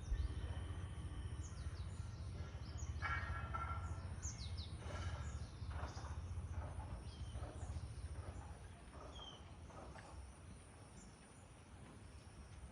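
Small birds chirping: many short, high, falling chirps scattered throughout, with a few fuller calls in the first half, over a steady low rumble that eases off near the end.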